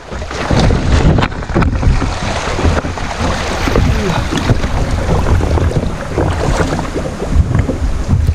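Wind buffeting the microphone over the splash and gurgle of river water around a kayak, as a loud, continuous, uneven rush.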